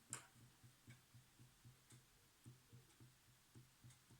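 Faint, even low thudding about four times a second from a vintage Necchi Supernova sewing machine's mechanism turning over slowly, after a single click at the start.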